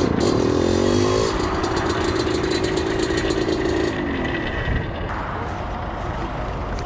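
Small two-stroke supermoto engine running under way at a steady high pitch, with a short rise in revs in the first second. About four seconds in the revs fall away as the bike slows to a stop, and the engine note drops to a quieter run.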